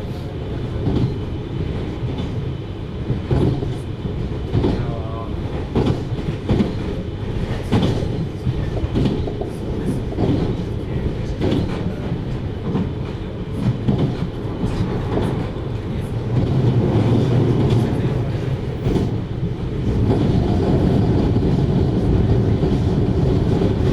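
Running sound of a JR Hokkaido 733 series electric multiple unit, heard from inside the car: a steady low rumble of wheels on rail with irregular clacks over the joints. The sound grows louder about two-thirds of the way through.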